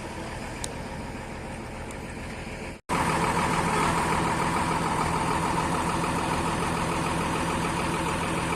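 Heavy diesel machine engine running steadily. About three seconds in, the sound drops out for an instant and comes back louder, the engine then running with a steady, even hum.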